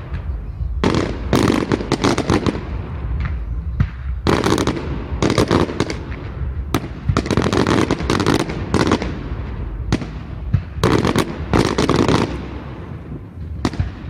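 Fireworks display: repeated volleys of sharp bangs and crackling, coming in dense clusters every second or so and easing off near the end.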